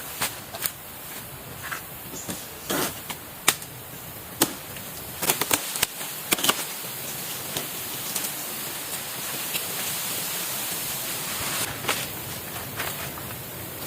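Irregular sharp knocks and cracks, like hand work on bamboo, over the steady rush of a river.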